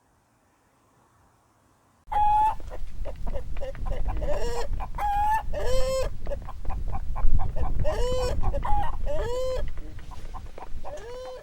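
Hens clucking: a busy run of short, arched calls that starts about two seconds in, over a low rumble.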